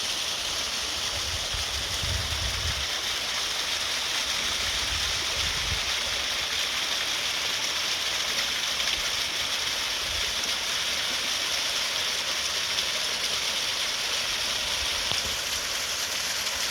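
Small waterfall running, a steady even rush of falling water.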